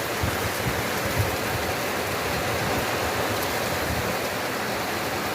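Steady heavy rain: a dense, even hiss of falling rain with a few soft low thumps of drops.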